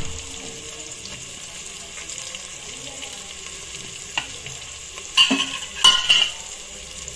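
Onions and garlic frying in oil in an aluminium pressure cooker, a steady sizzle. A click about four seconds in, and a few sharper knocks and scrapes of a utensil on the pot about five to six seconds in.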